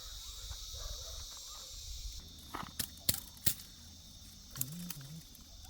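Insects buzzing steadily in a high band, stopping about two seconds in, then a few sharp clicks or knocks.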